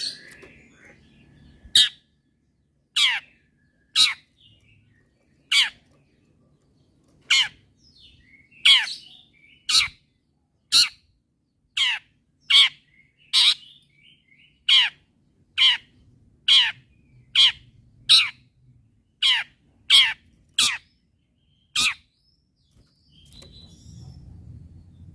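Long-tailed shrike (cendet) giving a series of about twenty short, sharp calls, each a quick falling sweep, roughly one a second, stopping a few seconds before the end.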